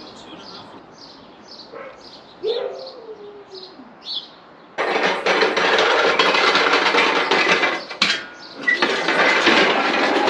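Small birds chirping repeatedly. About halfway through, a loud, continuous rattle starts suddenly: the small caster wheels of a steel wheeled dolly rolling over block paving and a concrete floor under a load.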